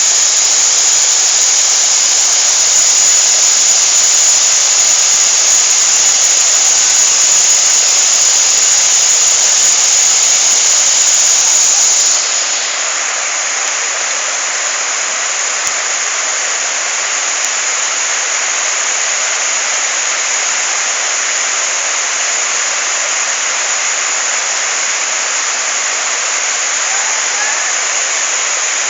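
Waterfall: a loud, steady rush of falling water, without a break. About twelve seconds in it becomes a little quieter and thinner, then carries on unchanged.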